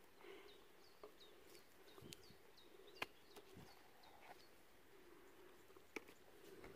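Near silence with a small bird's faint, high, falling chirps repeated about three times a second for a few seconds, and a few faint sharp clicks.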